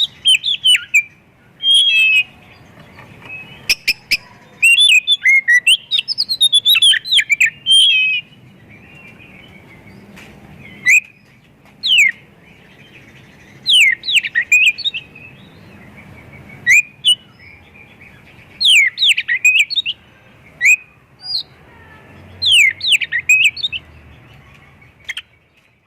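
Oriental magpie-robin (kacer) singing loud phrases of quick whistled notes, fast up-and-down sweeps and trills. The phrases run close together for the first several seconds, then come as short bursts every second or two with pauses between. This is a 'full isian' song, packed with notes mimicked from other birds.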